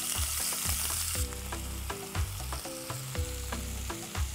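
Marinated chicken wings sizzling in hot oil and ghee in a pan. The sizzle is loud for about the first second, then fainter, over background music with a plucked melody and bass line.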